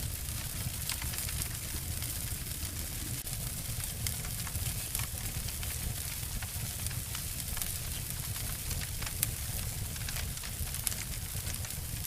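Two layered recordings of wood fires crackling and snapping: a steady low rumble under a hiss, with frequent small pops throughout and two sharper snaps in the last few seconds.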